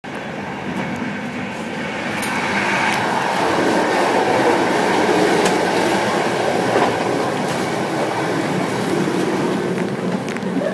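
Running noise of a moving passenger train heard from inside the carriage: a loud, steady rumble and rattle that grows louder over the first few seconds.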